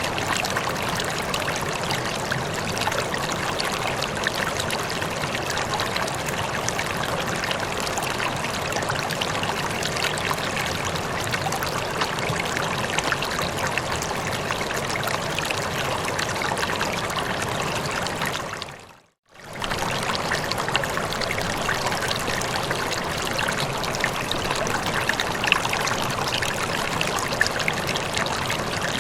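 Steady rushing of flowing water, like a stream, that fades out to near silence about two-thirds of the way through and fades straight back in, as at a loop join in the recording.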